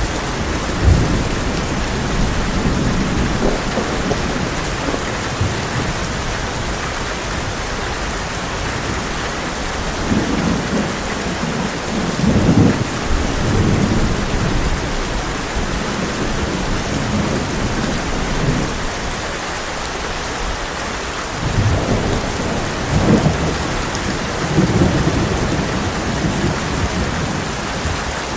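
Heavy rain pouring steadily on a tin roof, with rolling thunder rumbling low several times, swelling most about a third of the way in and again past the three-quarter mark.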